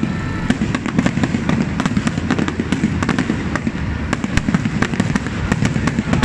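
Aerial fireworks bursting continuously: a rapid, overlapping run of bangs and crackling pops, several a second, over a steady low rumble.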